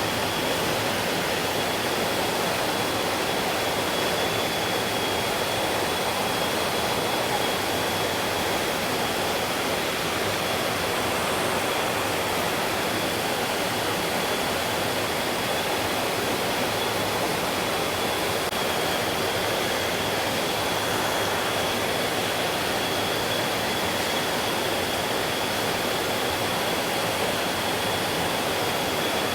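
Stream water rushing steadily in an even, unbroken rush, with a thin, steady high tone above it.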